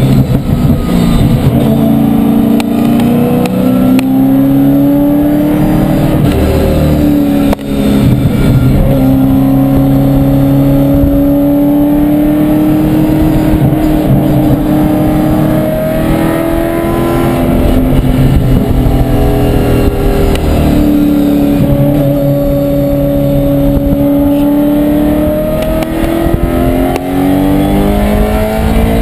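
A track car's engine heard from inside its caged cabin while it laps a circuit. The engine note climbs with the revs and falls back over and over as the car shifts and slows for corners, with a brief sharp drop about seven and a half seconds in.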